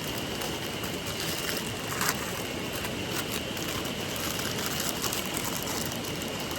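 Running water of a stream, a steady rushing hiss, with a faint steady high tone over it and scattered light clicks, the loudest about two seconds in.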